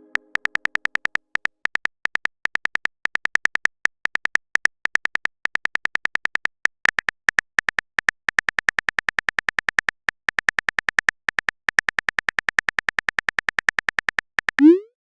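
Phone-keyboard typing sound effect: a long run of quick, bright key clicks, about eight a second in bursts with short pauses. Near the end a short rising swoosh, the loudest moment, marks a chat message being sent.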